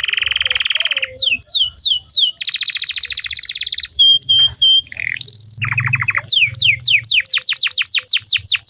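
Canary singing a long, varied song. It alternates fast rolling trills with runs of falling whistled notes, has three short steady pips about halfway, and ends in a quick series of falling sweeps, about four to five a second.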